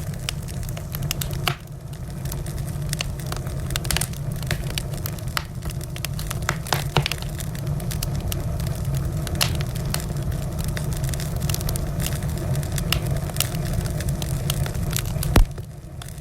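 Wood fire burning in a fireplace: a steady low rumble under frequent sharp crackles and pops of burning logs, with one loud pop near the end.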